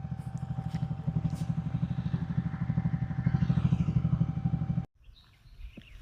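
Motorcycle engine running steadily under way, a fast even pulsing with a thin steady whine over it. It cuts off abruptly near the end of the fifth second, leaving quiet outdoor sound.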